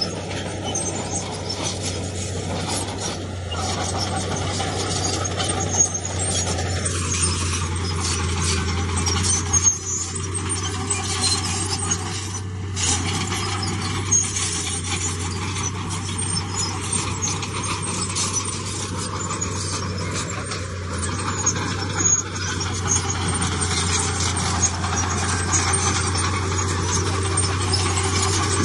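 Heavy diesel earthmoving machinery running steadily with a constant low engine hum, with scattered clicks and knocks over it.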